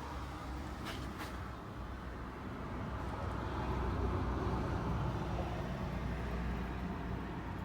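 Low, steady vehicle rumble that swells in the middle and eases off, with two short clicks about a second in.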